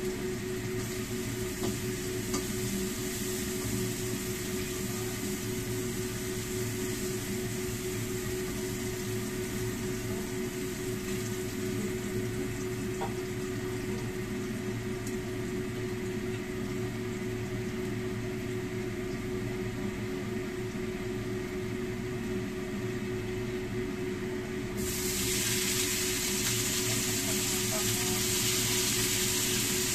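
A steady background hum with a constant tone. About 25 seconds in, a loud sizzle starts in a hot wok as cauliflower and carrots go into the oil, and keeps on frying.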